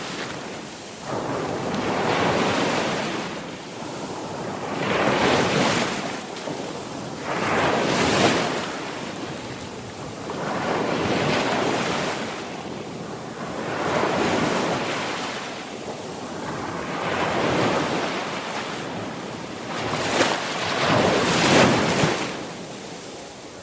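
Sea waves breaking and washing on a shore, surging and ebbing in repeated swells about every three seconds, with the loudest breaks near the start and towards the end.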